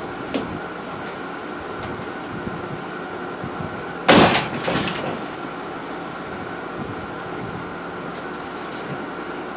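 A steady hum with a faint steady tone, broken about four seconds in by a loud short scrape or clatter and a weaker one just after.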